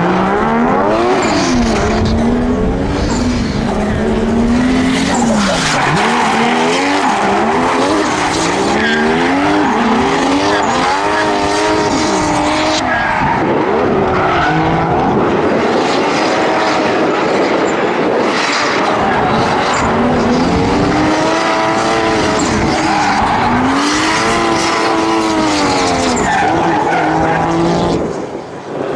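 Drift cars at full throttle on track, engines revving up and down over and over as they slide, with tyre squeal throughout. The sound dips briefly near the end.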